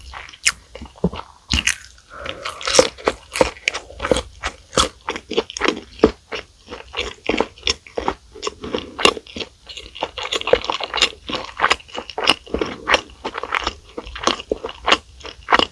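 Close-up mouth sounds of eating fast food: a quick run of crisp crunches and chewing, several bites and chews a second.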